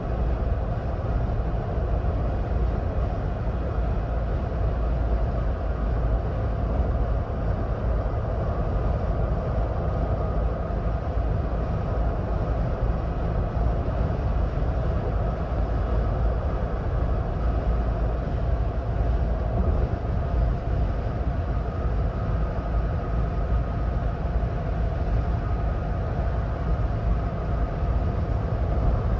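2026 Ford Bronco Badlands cruising at highway speed: steady road and tyre noise with a deep rumble and a faint constant hum, unchanging throughout.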